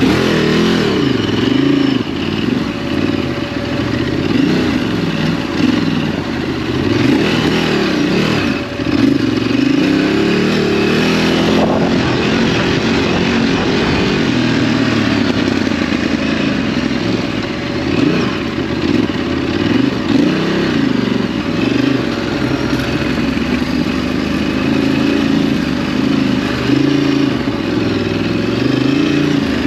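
Ducati DesertX's 937 cc L-twin engine running under way off-road, its revs rising and falling continuously.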